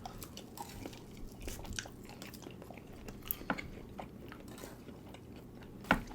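Close-miked eating: chewing and biting with many small irregular clicks and smacks, and a sharp louder click near the end.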